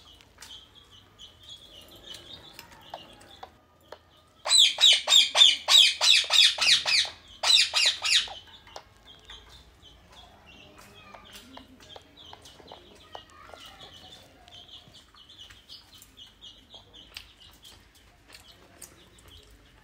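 Indian ringneck parrot screeching: a loud run of rapid harsh calls, several a second, starting about four and a half seconds in and lasting nearly four seconds with one short break. Faint high bird chirping goes on throughout.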